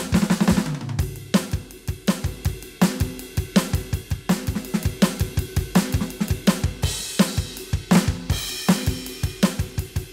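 Roland TD-17KVX V-Drums electronic kit played through its sound module: a fast groove of kick, snare and hi-hat, with a tom fill falling in pitch near the start and cymbal crashes later.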